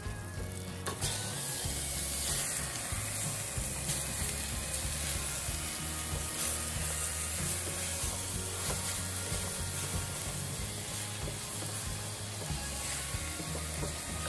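Raw chicken pieces sizzling and frying in a stainless steel pot, stirred with a spatula. The sizzle is a steady hiss throughout.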